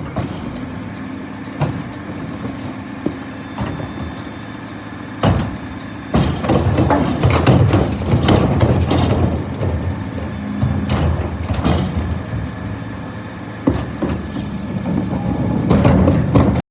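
Scania P320 refuse truck's engine running, with sharp knocks and clatter over it. It grows louder and busier about six seconds in.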